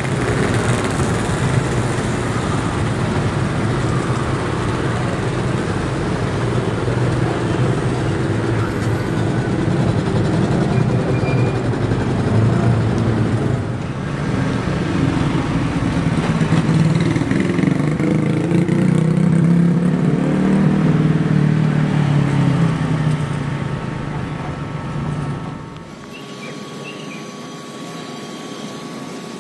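Diesel-hauled passenger train running past a railway level crossing: a steady rumble of the train and its wheels on the rails, mixed with the engines of motorcycles and cars waiting at the crossing. The sound drops to a much quieter background near the end.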